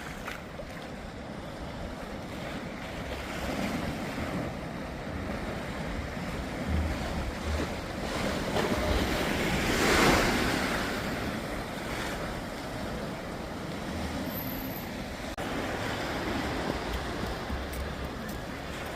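Ocean waves washing onto the shore, one surge swelling louder about halfway through, with gusts of wind buffeting the microphone.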